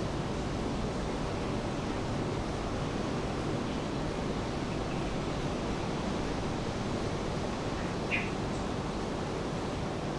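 Steady rain mixed with the wash of ocean surf, an even noise that does not let up. A short high sound stands out briefly about eight seconds in.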